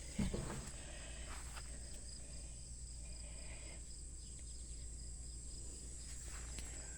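Crickets chirping steadily in the background, a faint high pulsing trill, with a brief low sound just at the start.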